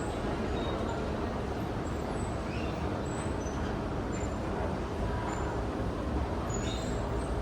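Steady low ambient rumble without distinct events.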